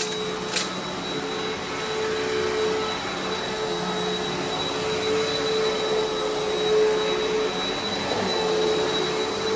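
Eureka Altima upright vacuum running steadily over carpet, its motor hum swelling a little as it is pushed back and forth, with a single sharp crackle of grit sucked up about half a second in.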